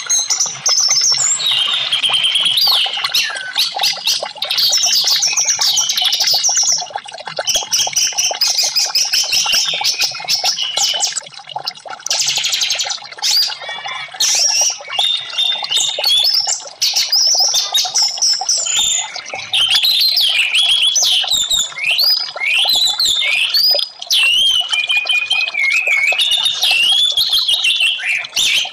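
Orange-headed thrush singing a dense, nearly unbroken run of fast whistled phrases that glide up and down. It is a recorded song played as a lure to set a caged thrush that has stopped singing into song. A brief hiss comes about twelve seconds in.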